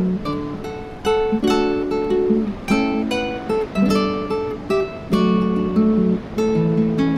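Background music played on acoustic guitar, plucked and strummed notes in a steady rhythm.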